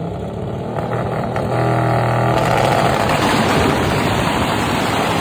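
A car engine running loud: a steady engine note about a second and a half in, giving way to a louder, rougher rush of noise that holds, then begins to fade near the end.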